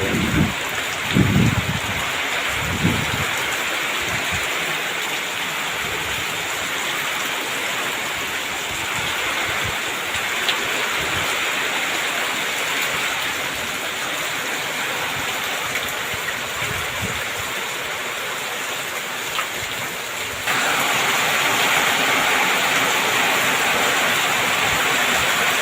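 Heavy rain pouring down in a dense, steady hiss. About twenty seconds in it abruptly gets louder.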